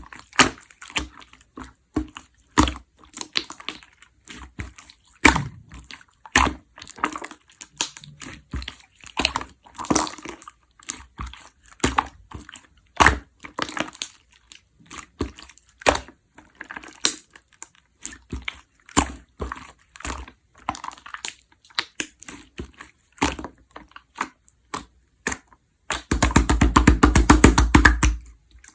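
Clear slime being squished and pressed by hand, giving irregular sticky clicks and air-bubble pops. Near the end a quick run of crackling pops lasts about two seconds.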